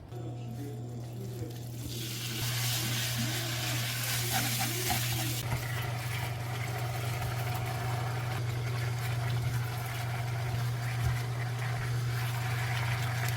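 Beef bulgogi sizzling in a pan: an even, hissing sizzle that swells in about two seconds in and holds steady, over a constant low hum.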